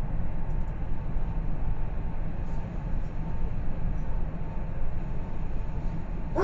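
Steady low rumble of a train running.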